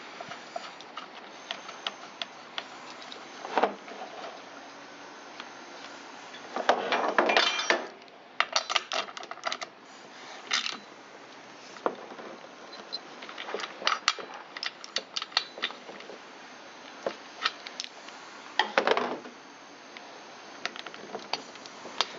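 Metal tools and parts clinking and clicking as a new spark plug is fitted into a chainsaw's cylinder head, with scattered light clicks throughout. There are a few louder rasping bursts, the longest about seven seconds in and another near the end.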